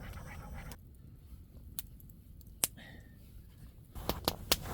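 A spoon clicking and tapping against a pot while breakfast oatmeal is stirred: a few single sharp taps, then a quick cluster of three or four near the end, over a low steady rumble.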